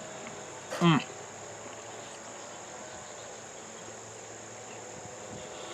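Steady, high-pitched chorus of crickets. About a second in, a person makes one short voiced sound with a sliding pitch, the loudest moment.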